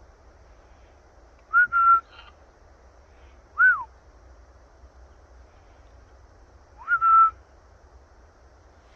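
A parrot giving three clear whistles: a rising note that levels off and holds, a short note that arches up and falls, then another rising note that levels off and holds.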